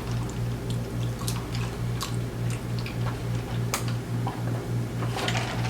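Light, irregular clicks and taps over a steady low hum that pulses evenly several times a second.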